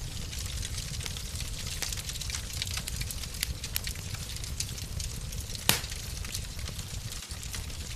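Wood fire crackling in a fireplace: a steady low rumble under frequent small crackles, with one loud pop about three quarters of the way through.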